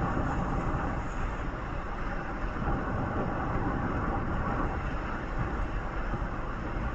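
Steady noise of a moving road vehicle: a continuous rumble of engine, tyres and wind with no distinct events.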